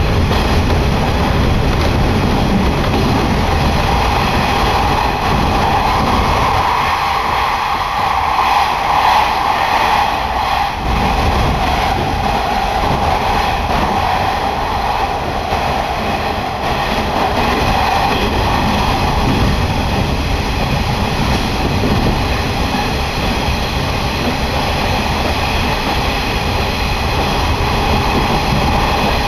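Passenger train running through a tunnel, heard inside the carriage: a steady, loud rumble and roar of wheels on rail with a strong mid-pitched hum over it. The noise jumps up as the train enters the tunnel at the very start.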